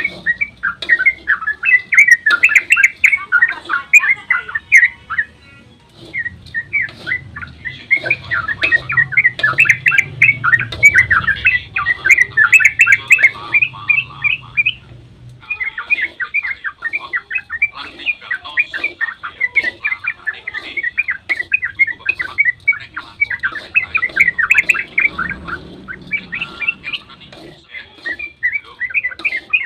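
Yellow-vented bulbul (trucukan) singing a fast, continuous run of chattering notes, with two short breaks, about six and fifteen seconds in.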